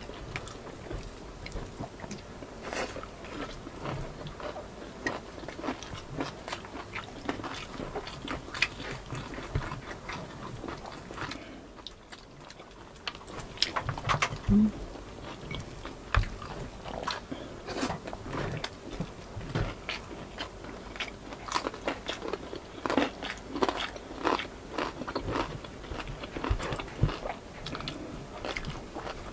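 Close-up eating sounds: biting and chewing crispy lechon kawali, its crackling pork skin crunching in many short crunches, with a brief lull about twelve seconds in.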